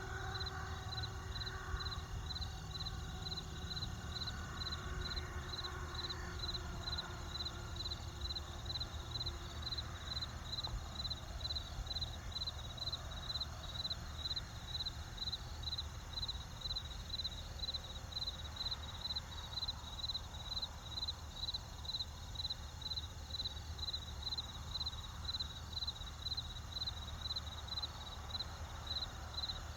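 Crickets chirping in an even, unbroken rhythm of about two high chirps a second, over a low steady rumble.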